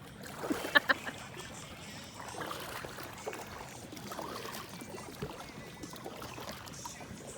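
Water trickling and splashing around a small paddled boat on a river, with two sharp knocks about a second in.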